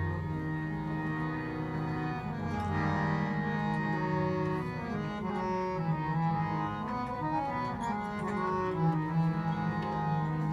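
Harmonium playing a slow melodic introduction to a Sikh kirtan shabad, with held reed notes that change every second or so.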